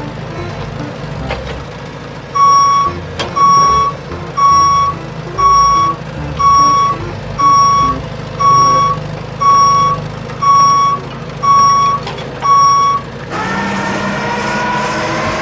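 Truck reversing alarm beeping steadily, eleven single-tone beeps about one a second. Near the end the beeping stops and a steady whine with slowly rising pitch takes over.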